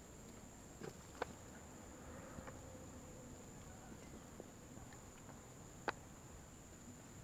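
Faint, steady, high-pitched drone of crickets, with a few sharp light knocks, the loudest just over a second in and just before six seconds.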